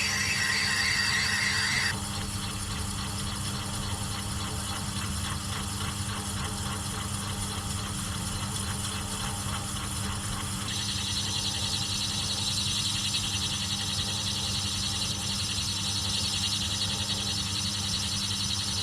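Machine tool running steadily while a cutter takes the outside of a nylon workpiece down to size. A high-pitched cutting sound rides over the motor hum, strong for the first two seconds, fading, then returning about halfway through.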